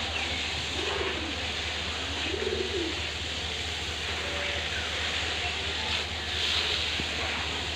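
Pigeons cooing, a few low rising-and-falling coos, over a steady low hum and a constant background noise.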